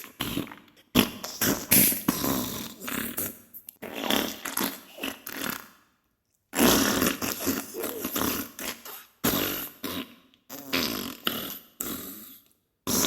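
Diarrhea sound effect: a string of irregular farting bursts, with a half-second break about six seconds in and another short break near the end.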